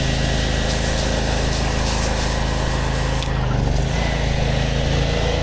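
Gas-engine pressure washer running steadily under a high hiss of spraying water. About three seconds in the hiss drops away and the engine note shifts slightly.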